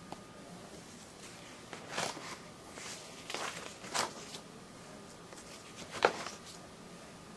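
Paper pages of a binder catalog being turned, four crisp rustles over a few seconds.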